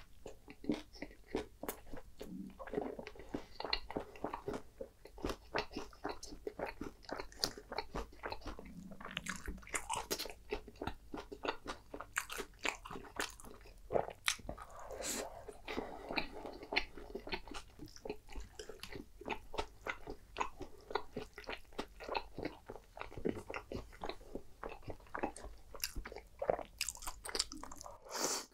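Close-miked chewing and biting of a soft flour-tortilla taco with crisp vegetable filling: dense, irregular crunchy and wet mouth sounds. Right at the end, a short slurp of creamy spaghetti.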